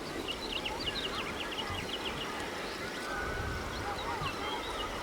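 Several small birds chirping and singing in quick, short notes over a steady outdoor background hiss, with a low rumble joining about three seconds in.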